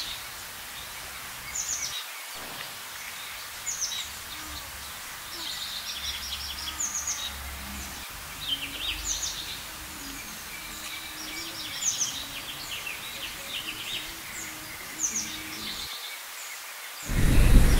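Small birds chirping: a short, sharply falling call repeats about every two seconds, with twittering between, over a steady hiss. Near the end, a louder steady noise cuts in.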